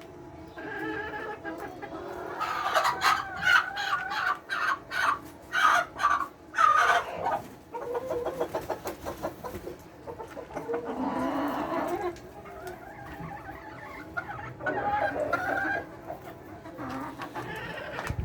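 Layer hens clucking and calling over one another, many short calls at once, busiest and loudest a few seconds in, with a longer drawn-out call near the middle.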